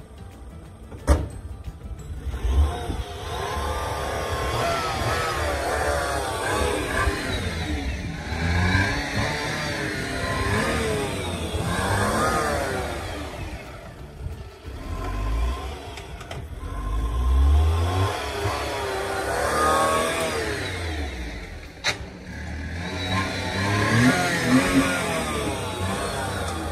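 Daihatsu Mira Gino kei car's small petrol engine revving up and easing off several times as the car pulls away and drives past, the pitch rising and falling with each swell. A sharp click about a second in, like a car door shutting.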